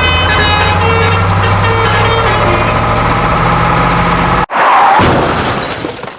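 A truck engine running steadily with short horn toots over it, cut off abruptly about four and a half seconds in, followed by a brief loud burst of noise that fades away.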